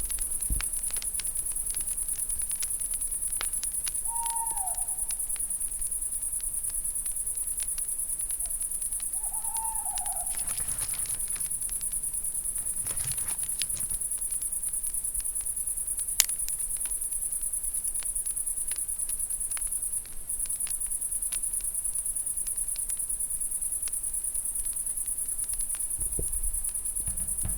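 Night ambience of crickets chirring steadily, with an owl hooting twice, about four and nine seconds in, each call dropping in pitch. Scattered sharp crackles of a campfire are heard throughout.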